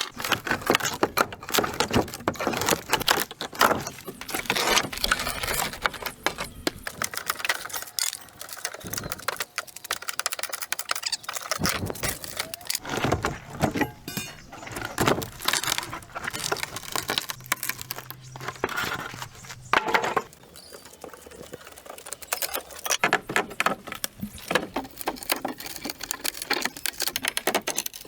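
Dense, irregular clattering and knocking of hard objects being handled, like hand work with tools and materials.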